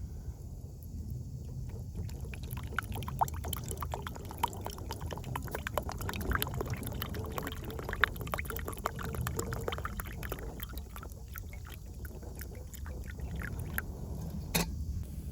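Wood fire crackling in a small twig-burning camp stove: many irregular snaps and pops, one sharper crack near the end, over a low steady rumble.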